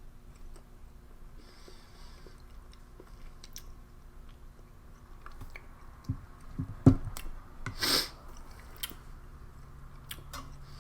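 A person chewing a mouthful of reheated MRE chicken stew, with quiet small mouth clicks. About seven seconds in comes a sharp knock, the loudest sound, and about a second later a short burst of noise.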